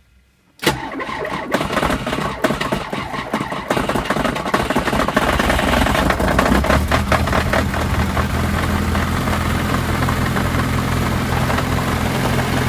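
Turbocharged VAZ-2104 (Lada) engine starting about half a second in, running rough and uneven for a few seconds, then settling into a steady idle. The owner hears a knock he cannot trace, though the valves and springs are fine and the timing chain, chain tensioner and valve stem seals are new.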